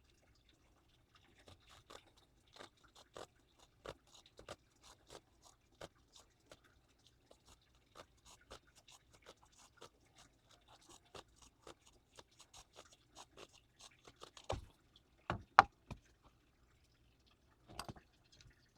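Saw cutting through a rope halyard at its eye, a long run of faint, short sawing strokes, several a second, with two louder knocks about three quarters through.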